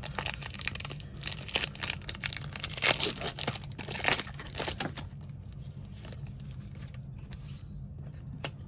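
Foil wrapper of a Bowman Chrome baseball card pack torn open by hand, crinkling and tearing for about five seconds, then falling quiet apart from a single click near the end. A low steady hum runs underneath.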